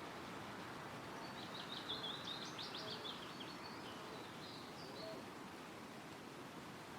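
Wind rustling through trees as a steady hiss, with a small songbird singing one rapid, high-pitched phrase about a second in that lasts a couple of seconds, then a few fainter high notes near the five-second mark.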